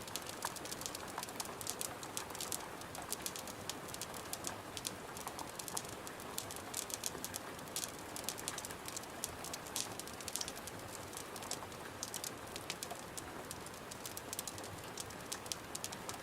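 Steady rain hiss with a wood fire crackling over it: many small, sharp pops at irregular intervals.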